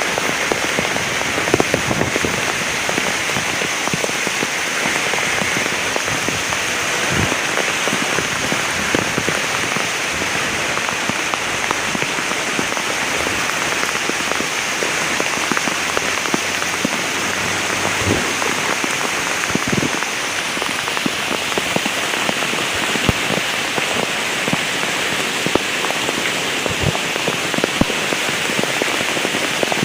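Heavy rain falling steadily, with many separate drops striking a surface close by.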